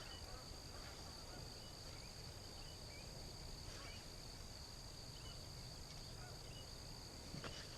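Faint outdoor ambience: a steady high-pitched insect drone, with short bird chirps scattered through it.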